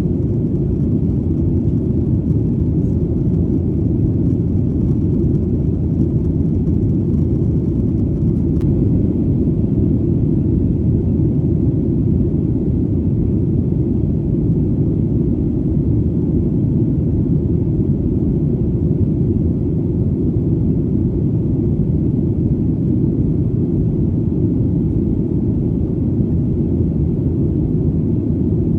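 Steady, deep rumble of airplane engine and airflow noise, even and unchanging with no pitch changes.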